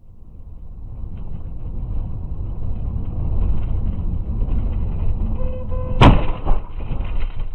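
Car on the move with a low road-and-engine rumble that builds over the first few seconds. About six seconds in there is a sudden loud bang, followed just after by a second, lighter knock.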